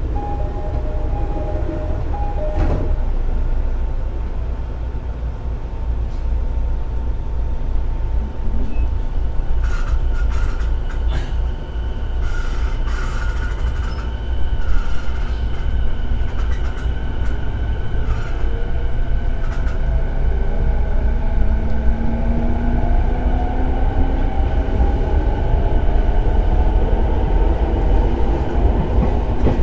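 E217-series electric multiple unit running on the rails with a steady low rumble. Wheels click over rail joints or points about a third of the way in. In the last third, the motor whine climbs in pitch as the train picks up speed.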